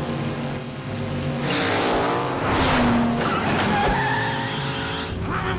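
Cartoon race-car sound effects: engines running steadily, with a loud tyre skid in the middle.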